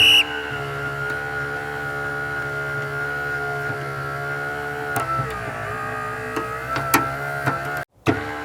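A motor running steadily with a hum, wavering slightly in pitch about halfway, with a few faint clicks and a short cut-out near the end.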